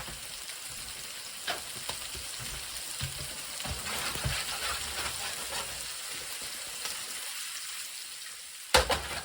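Food sizzling steadily in a frying pan, with a few light clicks and a sharp knock near the end.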